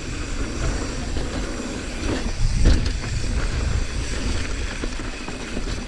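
Wind rushing over the microphone while a mountain bike rolls along a dirt trail, with light rattles and one louder knock a little under three seconds in.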